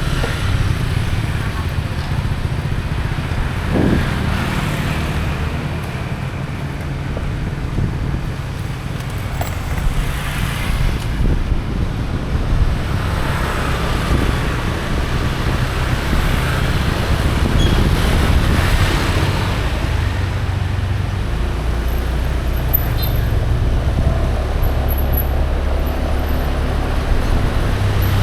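Steady road-traffic noise with a low engine hum running throughout, and faint voices in the background.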